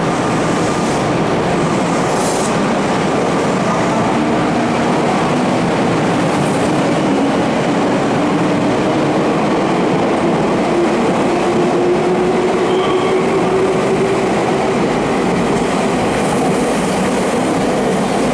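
Meitetsu 5000-series electric train, two sets coupled, pulling out along an underground station platform: steady running noise with wheels clattering over the rails and a motor whine that slowly rises in pitch as it picks up speed.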